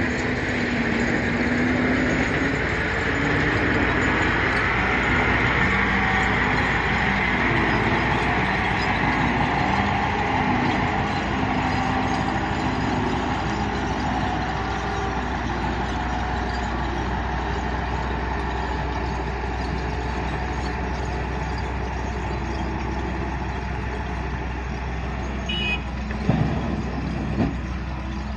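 Heavy diesel machinery running steadily, its engine pitch wavering up and down as the load changes. Near the end come two short knocks.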